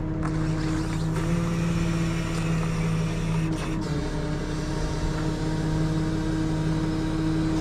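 Tow truck engine running at a steady pitch, a constant drone while driving.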